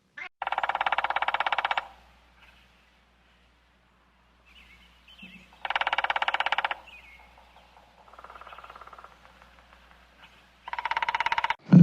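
An animal calling four times. Each call is a rattling, pulsed call about a second long, with faint chirps in the pauses between them.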